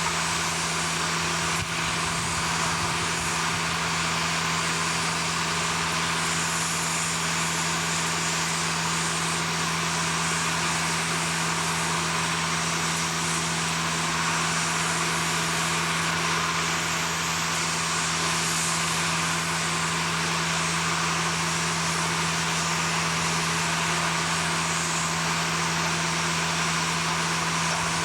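Steady machinery noise: an even, unchanging drone with a constant low hum running under it.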